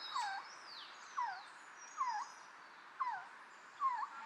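Birds calling: one bird repeats a short whistled call that slurs down and flicks back up, about once a second. Thinner, higher falling whistles from other birds sound in the first second or so, over a steady background hiss.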